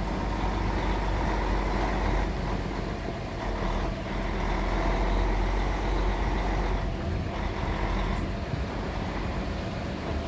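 Heavy truck running, a steady low engine rumble under a continuous haze of road noise.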